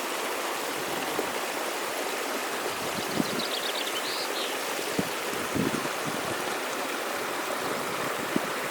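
Small stream of fresh water running steadily, with a few light knocks partway through.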